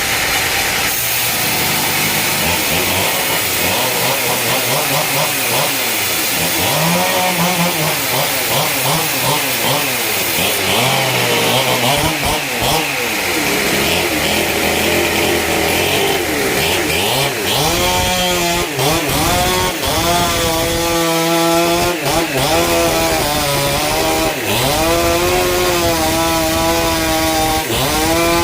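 Chainsaw running while cutting timber, its engine pitch repeatedly rising and dipping as the load on the bar changes.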